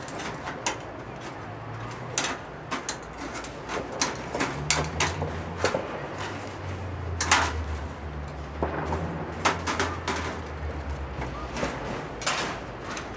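Irregular knocks and clanks of roofing work on sheet-metal chimney cladding, over a low motor hum that grows louder about four seconds in and eases off near the end.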